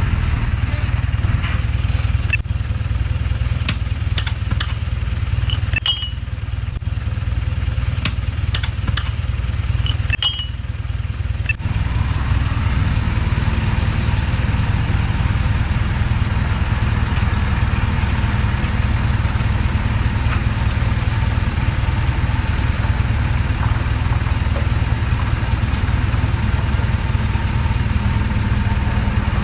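Heavy construction machine's diesel engine running steadily, with a scatter of sharp metallic clicks and clanks in the first ten seconds or so; about twelve seconds in the engine picks up and runs busier.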